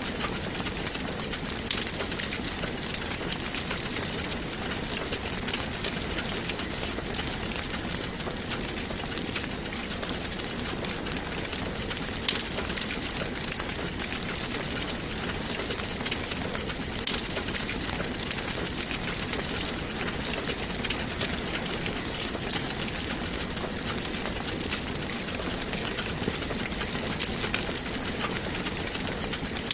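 Wood fire burning in a fireplace: a steady hiss with a constant scatter of small crackles and occasional sharper pops.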